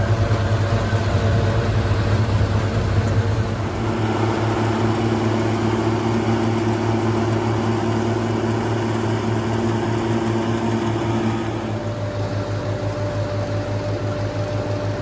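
Tractor engine running at a steady speed, with a constant low hum. The tone shifts abruptly about four seconds in and again near twelve seconds.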